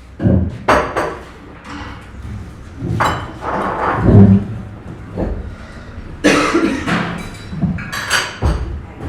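Breakfast-room clatter: repeated knocks and clinks of plates, cups and cutlery being set down and handled, a dozen or so in a few seconds, over a low background hum of the room.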